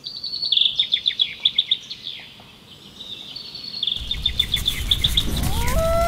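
A songbird singing two rapid trills of high, quickly repeated notes, the second about four seconds in. Near the end a low rumble comes in and a rising, then steady, tone begins.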